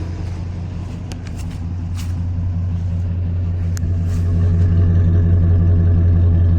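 Car engine with around 300,000 km on it idling steadily with fresh oil additive, getting somewhat louder about halfway through, with a few short faint ticks. The owner suspects its clinking noise comes from an oil film that does not hold, or from a tired piston and connecting-rod group.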